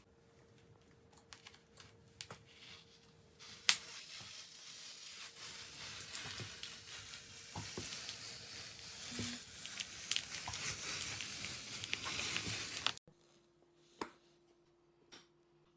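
Crinkling, rustling handling noise with scattered clicks, building over several seconds and cutting off abruptly about three-quarters of the way in. A faint steady hum runs underneath.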